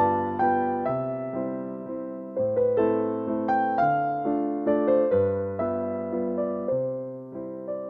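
Background piano music: a slow, gentle melody of single notes over sustained bass notes, each note struck and fading away.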